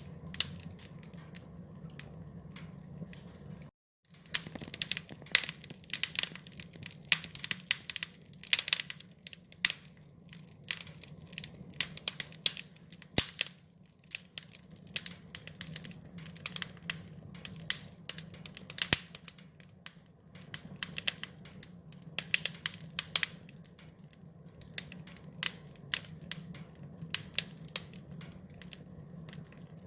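Campfire crackling, with irregular sharp pops and snaps over a low, steady rumble. The sound drops out completely for a moment just before four seconds in, then the crackling resumes.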